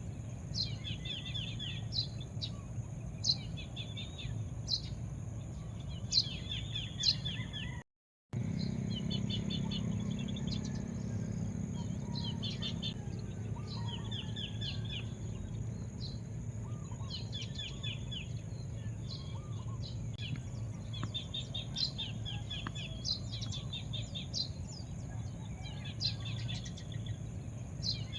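Small birds chirping over and over, short rapid trills of high notes every second or two, over a steady high whine and a low rumble. The sound cuts out for a moment about eight seconds in.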